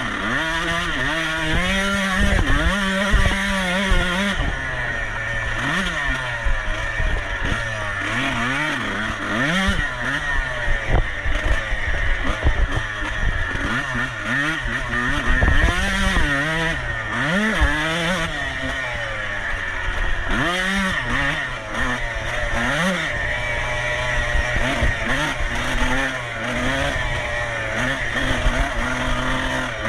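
Racing motorcycle engine revving up and falling back over and over, its pitch rising and dropping every second or two as the bike is ridden hard.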